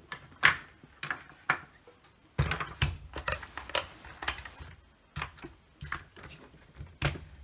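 Irregular clicks and knocks of small tools and parts being handled on a workbench, busiest about two and a half to four and a half seconds in.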